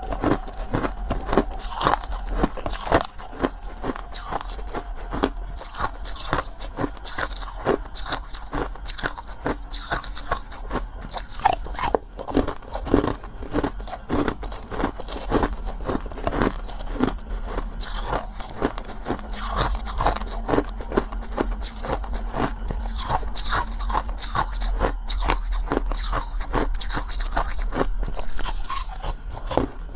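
Close-miked crunching and chewing of crunchy food: a dense run of crisp bites and crackles in quick, irregular succession.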